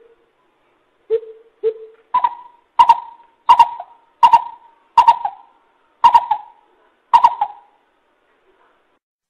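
Coucal calling: two deep hoots, then a series of seven higher, evenly paced hoots that space out slightly toward the end.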